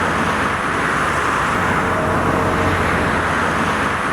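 Steady road and engine noise of a vehicle driving, an even rushing hiss over a low hum.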